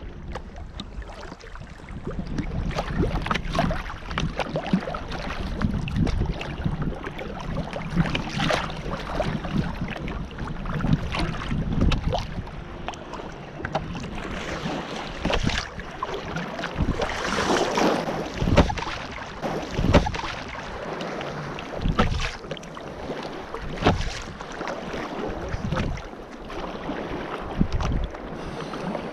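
Paddle strokes and choppy waves splashing against a Dagger Stratos sea kayak in a rising swell, with irregular sharp splashes every second or two. Wind buffets the microphone throughout.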